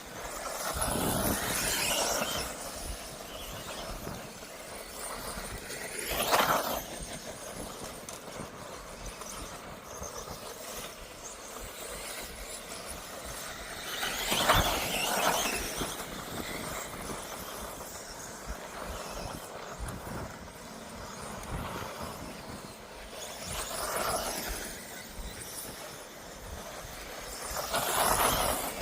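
1/10 scale electric off-road buggies racing, their motors and gears whining, the sound swelling several times as cars pass close by.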